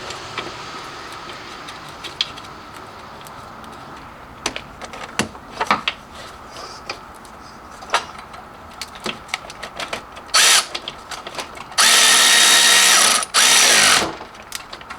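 Scattered clinks and knocks of hand tools and metal parts, then a power drill running in one short burst and two longer runs near the end, its pitch falling as it spins down after the last one.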